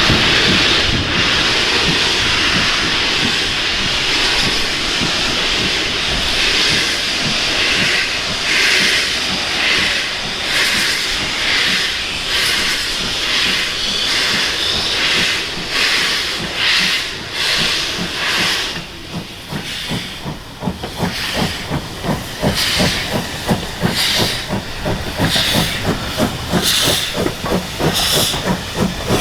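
Steam locomotive getting a train under way: a loud hiss of steam at the start, then exhaust beats at about one a second that quicken in the second half.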